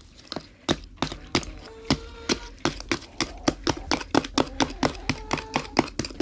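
Screwdriver chipping at frozen ice in a chicken waterer: a rapid run of sharp taps and cracks, about three or four a second, as the ice is broken up.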